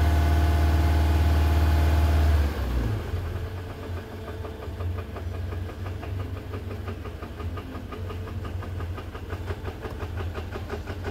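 Subaru FA20 flat-four engine running with a loud steady note that drops suddenly to a quieter idle about two and a half seconds in. From then on a fast, even ticking rattle carries on over the idle, the FA20's variable valve timing (VVT) rattle.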